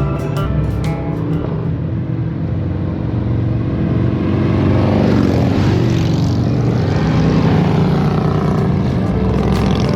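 Motorcycle engine running steadily at cruising speed. A rushing noise swells and fades around the middle.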